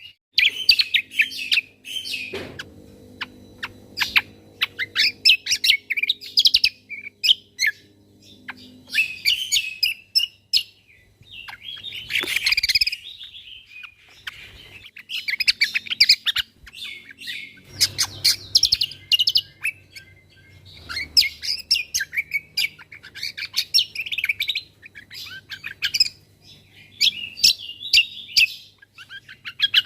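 Cucak kombo songbird singing its full song in repeated fast runs of high chirps and rapid-fire trills, broken by short pauses, with a faint low hum beneath.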